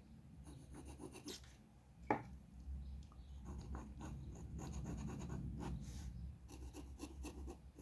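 Drawing tool scratching on paper in many short strokes, with one sharp click or tap about two seconds in. A low steady hum runs beneath.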